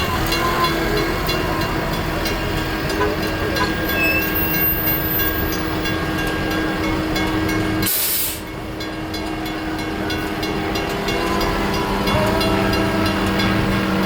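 Engine running with a steady hum, and a short, sharp hiss about eight seconds in.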